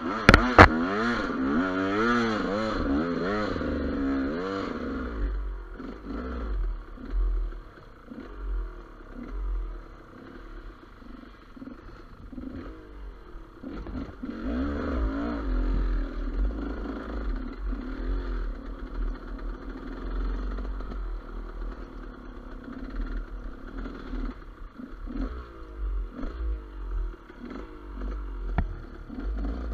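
GasGas EC200 two-stroke enduro motorcycle being ridden off-road: the engine revs rapidly up and down in the first few seconds, then runs on with changing throttle, with scattered short knocks and clatter from the bike over rough ground.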